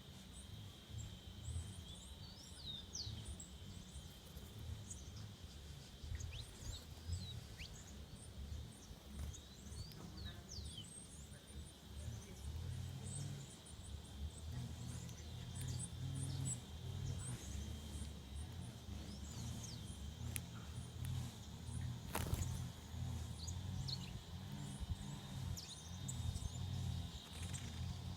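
Small birds chirping and calling in many short notes over a steady high-pitched buzz, with a low rumble underneath and one sharp click about two-thirds of the way through.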